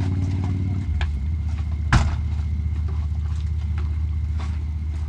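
A motor vehicle engine idling steadily, a low hum that changes slightly about a second in. A single sharp knock sounds about two seconds in.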